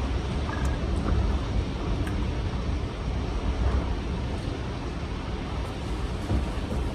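Strong gusty wind blowing, with a heavy low rumble of wind buffeting the microphone.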